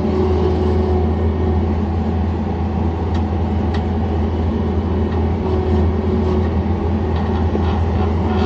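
John Deere 317 skid steer's diesel engine running steadily, a constant low drone with a hum above it.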